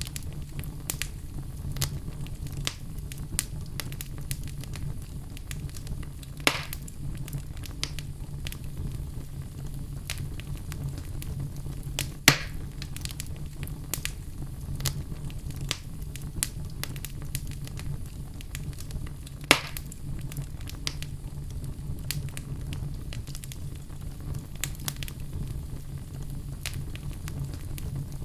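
Wood fire burning in a fireplace, crackling steadily with frequent small snaps and a few louder pops, under a steady low rumble.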